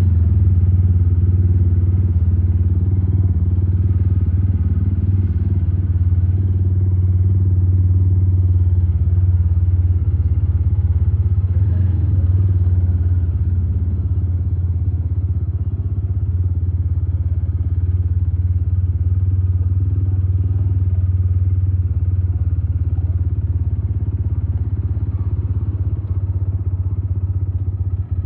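Motorcycle engine running steadily, a loud, even, low drone that holds throughout.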